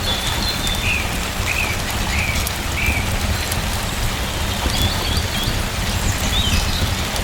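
Steady rain falling, with a deep low rumble under it. A small bird chirps in short runs of quick notes, about a second in and again later.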